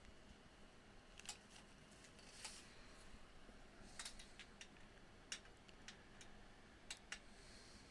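Faint, scattered clicks and light taps, about a dozen of them, from hand work on a steel canopy tent frame.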